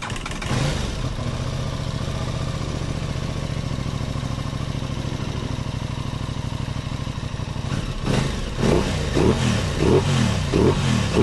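Aprilia Tuono 660's parallel-twin engine idling steadily, then revved in about five quick throttle blips over the last three seconds. The revs pick up sharply, the sign that the throttle response fault is cured.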